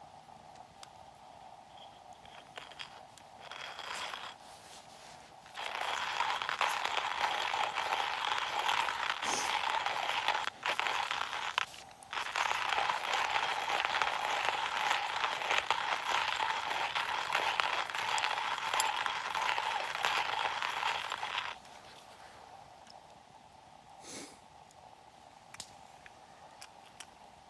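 Hand-cranked coffee mill grinding beans: a continuous gritty crunching that starts about five seconds in and goes on for about fifteen seconds, with two brief pauses, then stops.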